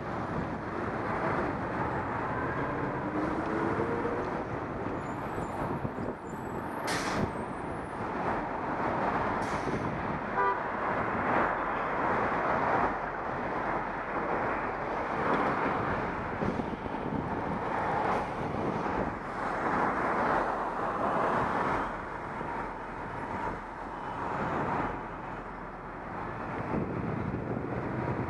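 Wind rushing over an action camera's microphone during a bike ride, mixed with street traffic noise, swelling and fading; one sharp click about seven seconds in.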